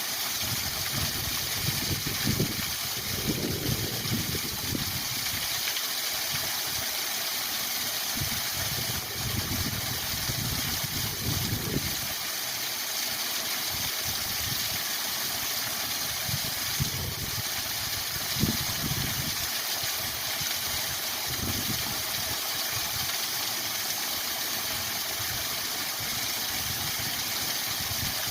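Waterfall rushing: a steady hiss of falling water, with low rumbles that swell and fade every few seconds.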